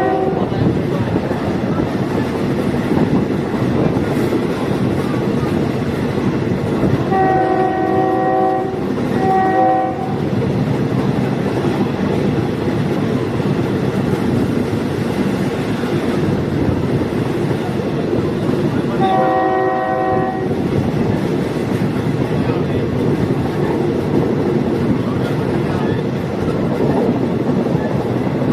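Diesel multiple unit train running along the line with a steady rumble of wheels on rails, its horn sounding a long blast and a short one about seven to ten seconds in, and another long blast about nineteen seconds in.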